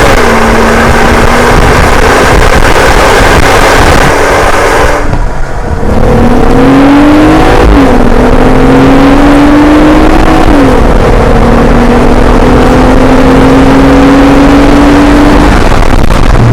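Jeep Wrangler JL's 3.6-litre V6 running through an MBRP XP axle-back exhaust while accelerating. The engine note climbs and drops sharply at each upshift. The sound breaks off briefly about five seconds in, then picks up again, climbing through two more shifts.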